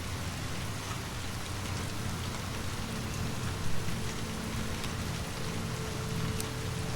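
Steady rain falling, over a low rumble, with a few faint sharp ticks and one brief louder knock a little after the middle.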